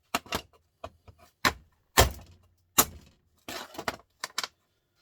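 Small metal parts of a stripped-down printer motor clinking and knocking together as they are handled and tossed aside, about ten sharp strikes that stop about four and a half seconds in.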